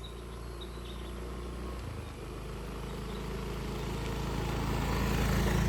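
A steady low motor hum, growing gradually louder.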